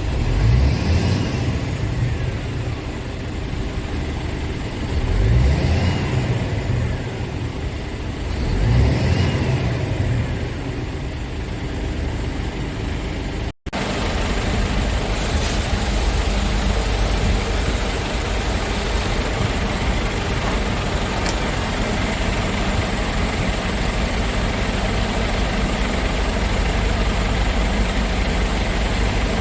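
Scania S tractor unit's diesel engine revved three times over idle, each rev rising and falling in pitch. After a cut about halfway through, it idles steadily.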